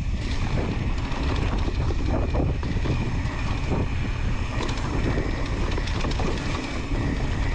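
Mountain bike descending wet rock on a helmet or chest camera: a steady rumble of wind on the microphone and tyres rolling, with constant small rattles and clicks from the bike over the rough ground.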